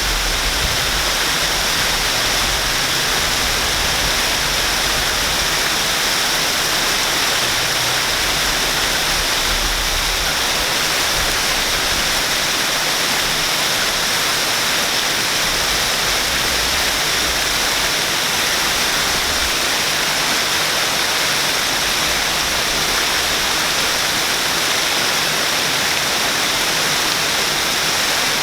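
Waterfall in Shinjuku: steady rushing water, a constant hiss.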